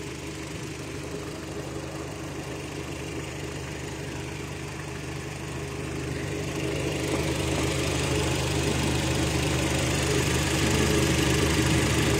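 Kia Rio's engine idling steadily, running again after its faulty computer box (ECU) was repaired. The idle grows louder over the second half.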